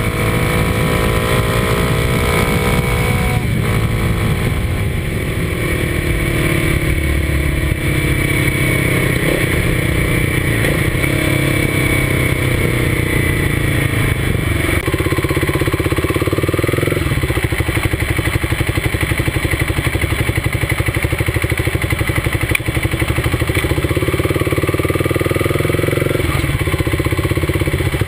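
Kawasaki D-Tracker 250's single-cylinder engine running under way, heard close from the handlebars, its pitch rising and falling with the throttle and stepping several times at gear changes.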